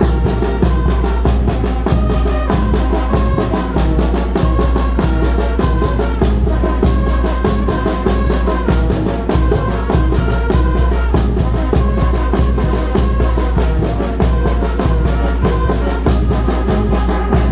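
Oaxacan brass band (banda de viento) playing: brass melody over a steady drum beat and a heavy bass line.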